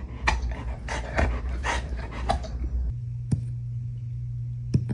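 A dog hiccuping: five or six short, sharp hics come in quick succession over the first two and a half seconds. After that there are two fainter single clicks, over a steady low hum.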